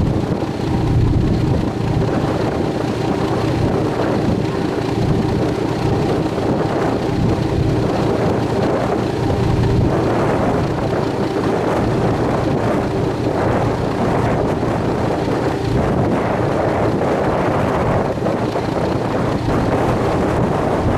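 A sightseeing cruise boat's engine running steadily underway, a constant hum, with wind rumbling on the microphone.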